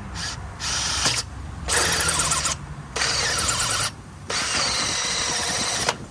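Power drill running in reverse in four short bursts, stopping and starting between them.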